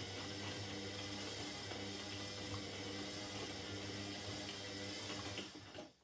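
Indesit 71252 washing machine running with rushing water over a steady electric hum, which stops abruptly near the end.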